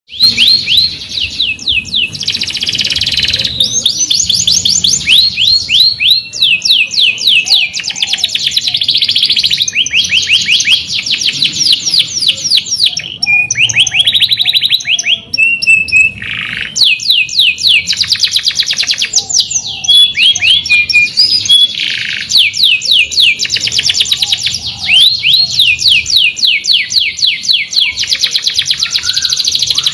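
Canary singing a long, loud song of fast rolling trills: runs of rapid, repeated high sweeping notes that change tempo and pitch from phrase to phrase, with only brief breaks.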